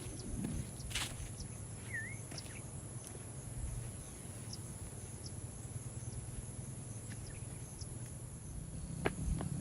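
Outdoor ambience: a steady high insect trill, crickets, with a single short bird chirp about two seconds in and a low wind rumble underneath. A few sharp clicks come near the end.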